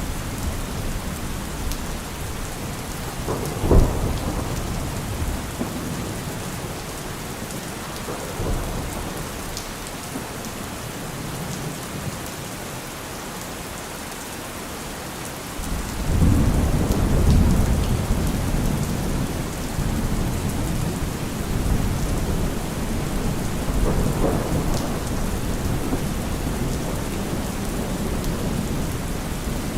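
Heavy rain falling steadily on a car roof during a thunderstorm. A short, sharp thunder clap comes about four seconds in, and a long, low rumble of thunder begins about halfway through and keeps rolling with swells.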